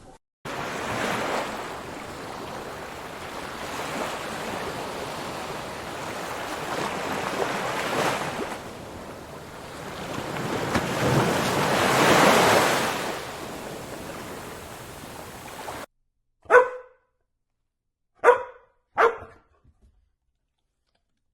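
A steady rushing noise that swells and then cuts off suddenly, followed by a dog barking three times: one bark, then a quick pair.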